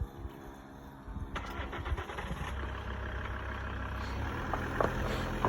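A motor vehicle running, coming in about a second in and growing gradually louder, with a couple of short knocks near the end.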